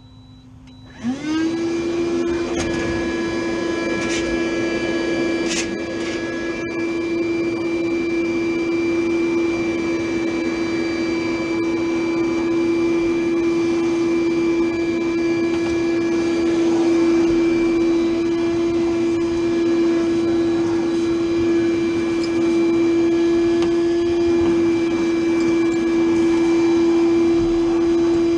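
An electric motor spins up about a second in, its pitch rising briefly, then runs with a steady loud whine.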